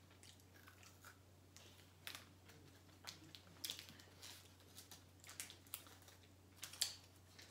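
Faint, scattered crunches of a Kit Kat Lemon Crisp wafer bar being bitten and chewed, with light crinkling of the candy's wrapper.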